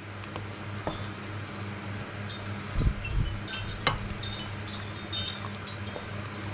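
Utensil stirring sauce around chicken in a pan: scattered light clinks and scrapes against the pan, with a soft low thump about three seconds in, over a steady low hum.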